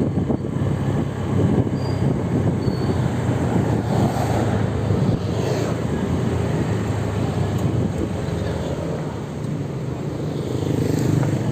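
Road traffic noise: a steady rumble of vehicles, with a vehicle passing around the middle and again near the end.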